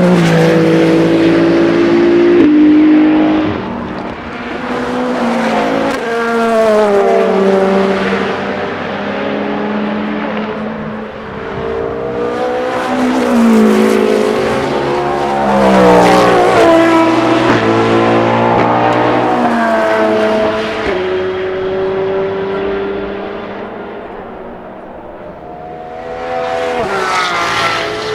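Several endurance race cars passing one after another at speed, their engines revving up and down through gear changes, often more than one car heard at once. The sound swells as each car nears and fades as it moves off, with a lull shortly before the end and a new car arriving near the end.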